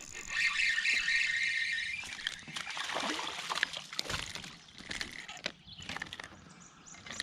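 Water splashing and sloshing around a fishing kayak, with scattered knocks, loudest in the first few seconds.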